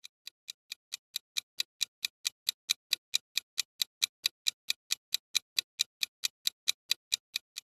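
Quiz countdown timer: a clock-tick sound effect ticking steadily, about four to five sharp ticks a second, fading in over the first second.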